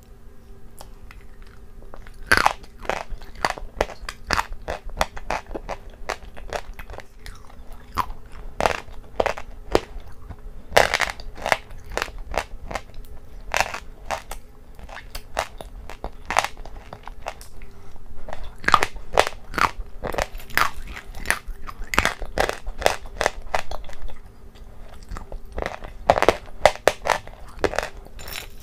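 Close-miked crunching and chewing as spoonfuls of hard, brittle pieces in a creamy mixture are bitten and chewed, with many sharp, irregular crunches.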